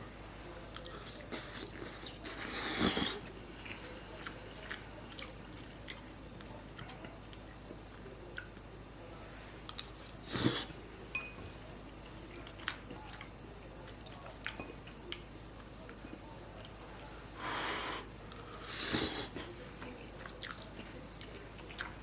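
A person eating ramen noodles: wet chewing with small clicks, broken by a few louder slurps, once early, once midway and twice close together near the end.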